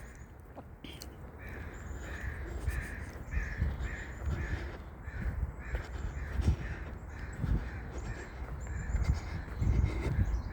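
A crow cawing over and over, short harsh calls about three a second, with low thumps of footsteps along the trail.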